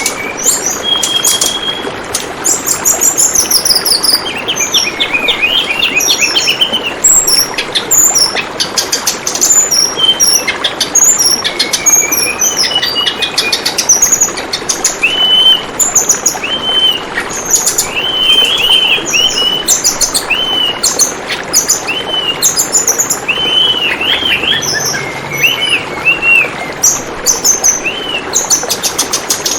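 Tledekan bambu song: a busy run of short chirps, arched whistled notes and quick clicking trills, over the steady murmur of flowing water.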